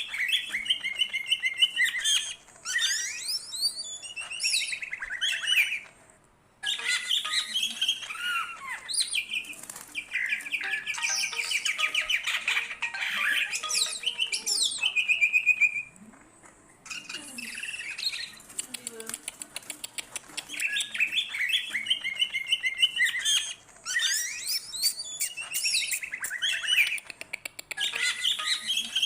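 Greater green leafbird (cucak ijo) singing continuously in full song: a varied stream of whistled phrases, chatters and fast trills, broken by two short pauses.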